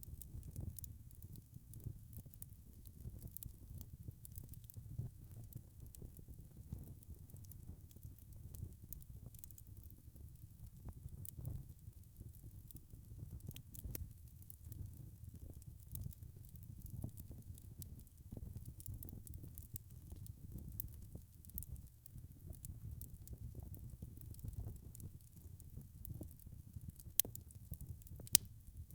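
Log fire burning in a fireplace: a steady low rumble of flame with frequent small crackles, and two sharper pops near the end.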